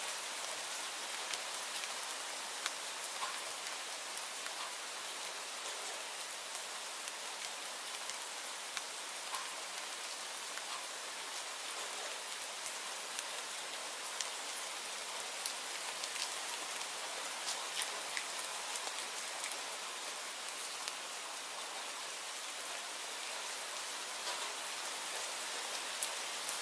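Steady rainfall, an even hiss of rain with scattered sharper drop ticks.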